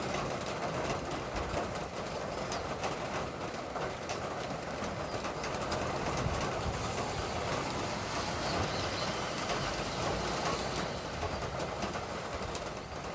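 Rain falling steadily: a dense, even hiss with scattered drips ticking through it.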